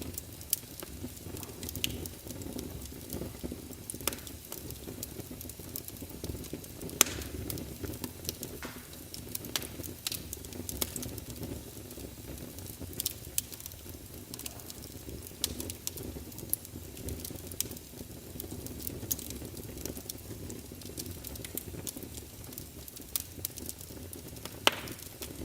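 Wood fire of burning logs in a fireplace, crackling: a steady low rumble and hiss of flames under irregular sharp pops and snaps, several of them louder than the rest.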